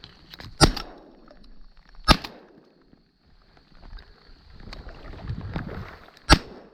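Three shotgun shots fired at ducks: two about a second and a half apart, then a third some four seconds later.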